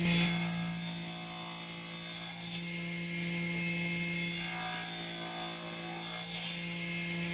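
Wood being rasped or rubbed in strokes, about four of them roughly two seconds apart, over a steady electrical hum.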